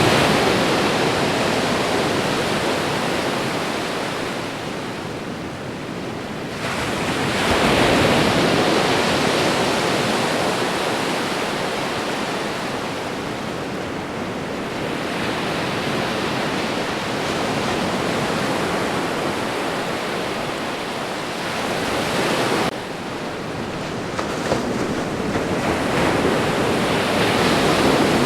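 Ocean surf breaking on a shore: a continuous rushing wash that swells louder as each wave breaks, three times, and eases between them. The level changes abruptly twice, about a third of the way in and again about four-fifths of the way in.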